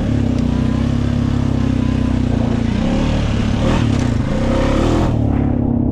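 2020 Honda Rubicon ATV's single-cylinder four-stroke engine running at a steady low throttle, its pitch dipping and recovering about three to four seconds in.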